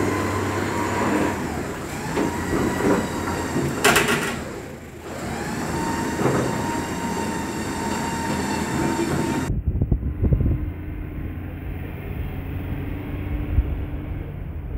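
Kadett GSI 2.0 engine, fitted with a 4-into-1 header and no air filter, running steadily with a faint wavering whine and a short sharp burst about four seconds in. After about nine and a half seconds the sound changes abruptly to a duller low rumble of road traffic.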